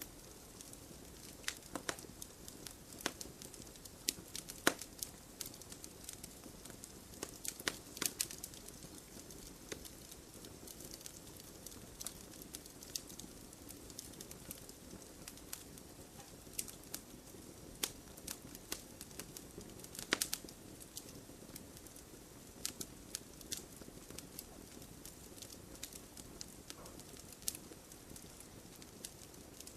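Wood campfire crackling: irregular sharp pops and snaps, a few louder ones around 8 and 20 seconds in, over a soft steady rush of the flames.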